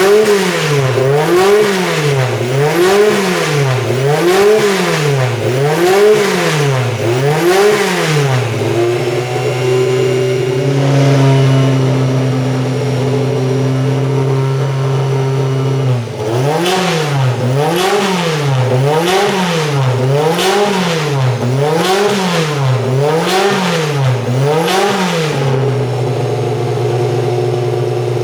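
BMW 320 Group 5 race car's engine revved in quick rhythmic blips of the throttle, about one every three-quarters of a second. It settles to a steady, lumpy idle for several seconds in the middle, then a second run of blips, then idles again near the end.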